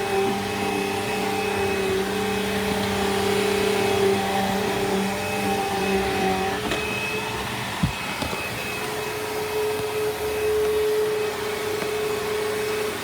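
Bissell Rewind SmartClean upright vacuum cleaner running with a steady motor hum and whine. About halfway through its tone shifts, and a single knock comes soon after.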